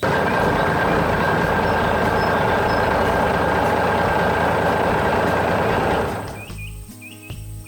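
Heavy machinery running loudly and steadily as a dense rushing noise, cutting in suddenly and fading out after about six seconds.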